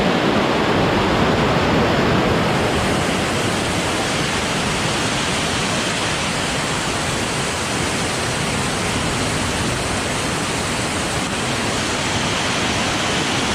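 Waterfall water rushing over rocks close to the microphone: a loud, steady, even rush with no breaks.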